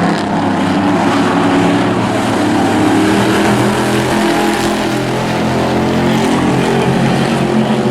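Several hobby-class race trucks' engines running together at racing speed, a dense, steady mix of overlapping engine notes.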